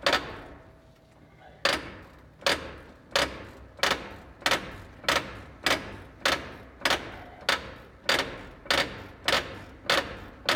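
Slack adjuster on a heavy-truck air brake popping over and over as its adjusting nut is backed off, about one and a half sharp pops a second. The pops start about one and a half seconds in. It is the adjuster's internal ratchet being forced backwards, which the mechanic feels wears the adjusters out.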